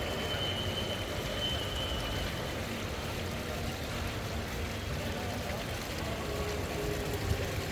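Steady trickle of running water over a low background rumble.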